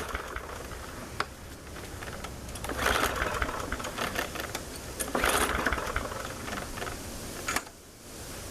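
MTD push mower being pull-started with its recoil starter, about three pulls a couple of seconds apart, the engine turning over without catching. The carburetor is running dry of gas.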